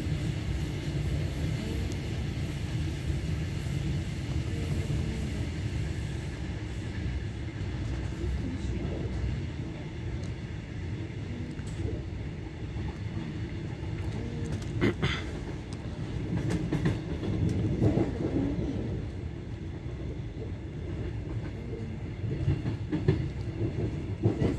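Passenger train in motion, heard from inside the carriage: a steady low rumble of wheels on the rails, with a few sharp clicks and knocks, the loudest about two-thirds of the way through.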